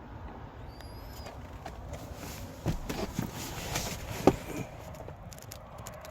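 A cluster of short knocks and clicks from about three to four and a half seconds in, the sharpest one near four seconds, over a steady low rumble.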